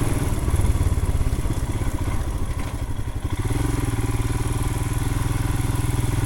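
2020 Royal Enfield Himalayan's 411 cc single-cylinder engine running at low speed over a rutted dirt trail. It eases off briefly about halfway through, then picks back up and runs steadily.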